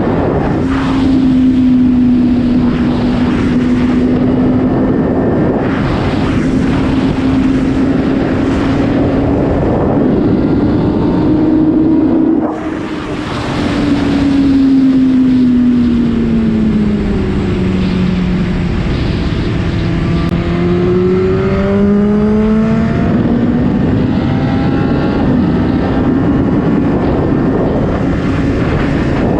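Superbike with an Akrapovič exhaust running at a steady speed, its engine note holding level over wind rush. About twelve seconds in the throttle is briefly shut off, then the note dips lower and climbs back up.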